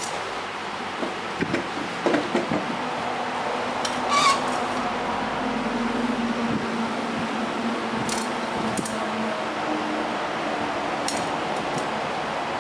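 Light clicks and taps of bamboo bird-cage parts being handled and fitted together, a handful of separate knocks with one sharper clink about four seconds in, over a steady background hiss.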